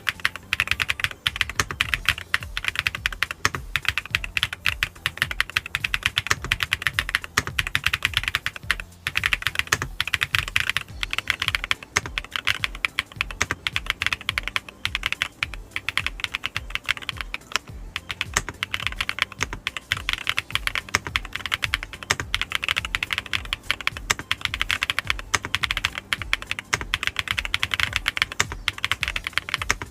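Continuous fast typing on an ABKO AK998 mechanical keyboard with Melon switches: a dense, unbroken run of keystroke clacks with the 'dogak-dogak' sound.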